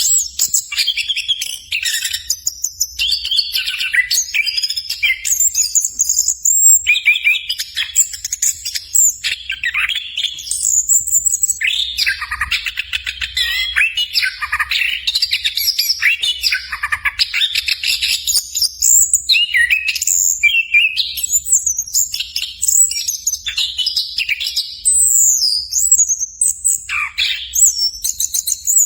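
Anis kembang (chestnut-capped thrush) singing vigorously: a loud, continuous run of rapid, varied phrases with only brief breaks between them.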